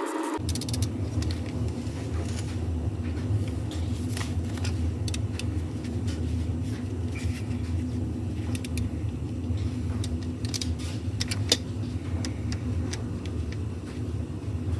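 Scattered metallic clicks and clinks of hand tools working on bolts, over a steady low hum that starts just after the beginning.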